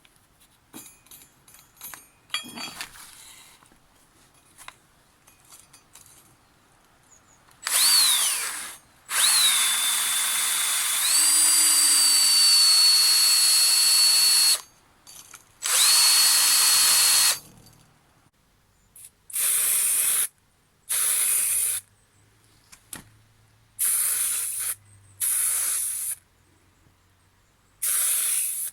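A handheld power tool, drill-like, run in bursts. First come a few runs of one to five seconds with a high motor whine that shifts in pitch, then a string of shorter one-second bursts. Light clicks and handling sounds come before the first run.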